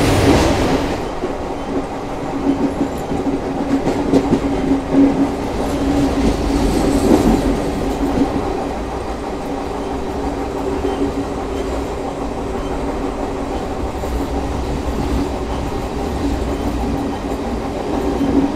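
Passenger train running along the track: a steady rumble and hum from the coach, with irregular wheel clacks over rail joints in the first half that settle into a steadier run.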